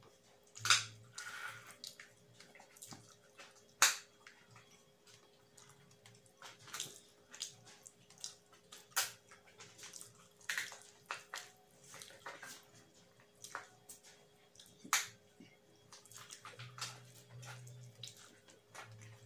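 Wet chewing and lip-smacking of a person eating rice and curry by hand, a run of irregular sharp clicks and smacks.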